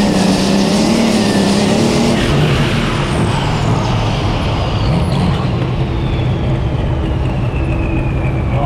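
Super stock pulling tractor's engine running loud with a wavering pitch, then dropping to a lower, steadier note about two seconds in. A high whine falls steadily over the next several seconds, the sound of the turbocharger winding down as the engine comes off power.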